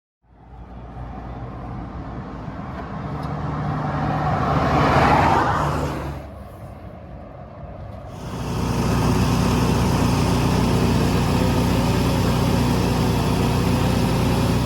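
Tractor engine running: it swells to a peak about five seconds in and falls away, then runs steadily and louder from about eight seconds in.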